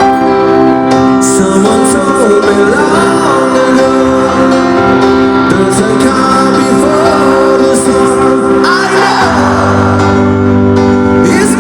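Band music with singing over sustained guitar chords; the bass line changes about nine seconds in.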